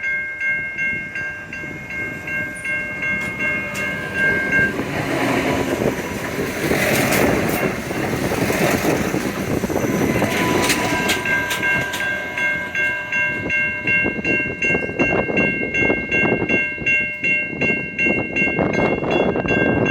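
Adelaide Metro diesel railcar running through the station, its wheels clacking over the rail joints, with the running noise growing louder in the second half. A steady high ringing tone sounds throughout, dropping out for several seconds in the middle before it resumes.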